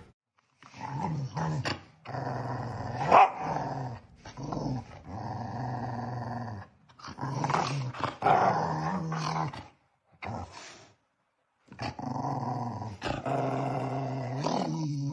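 A dog growling in long, low stretches, several in a row with short breaks between them.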